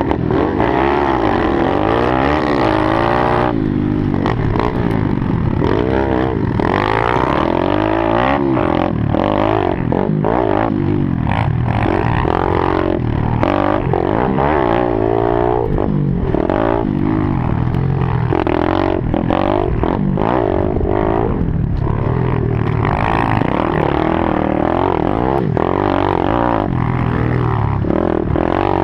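Kawasaki KLX110 mini bike's small single-cylinder four-stroke engine revving up and falling off again and again as it is ridden hard through the turns and straights of a dirt track.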